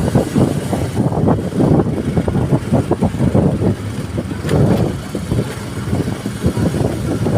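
Vehicle ride noise on the road: engine and rushing air, loud and rapidly fluctuating.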